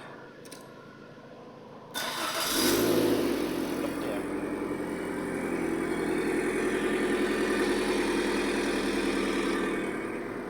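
Toyota 2NR-VE 1.5-litre four-cylinder petrol engine cold-starting: it catches suddenly about two seconds in, flares up, then settles into a steady idle.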